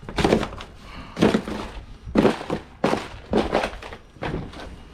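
A series of heavy knocks, about one a second, as an item is struck and broken apart for scrap.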